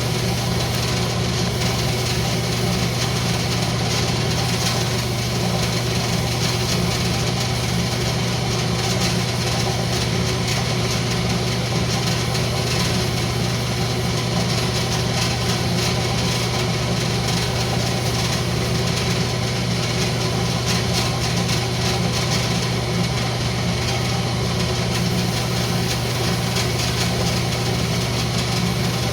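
Wood lathe motor running steadily with a constant low hum, spinning a rosewood workpiece.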